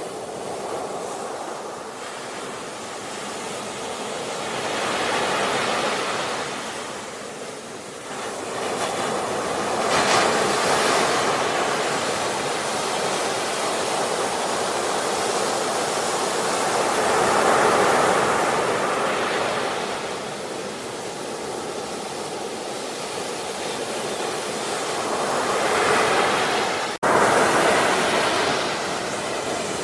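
Ocean waves surging and washing on a shore, the surf rising and falling in slow swells every several seconds. A brief sharp dropout comes a little before the end.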